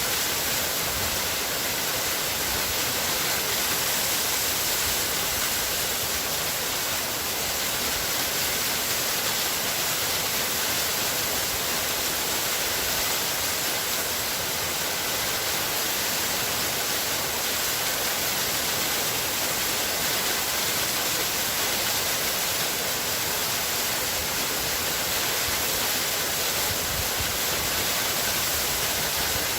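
Waterfall: water falling and splashing in a steady, unbroken rush, with a bright hiss.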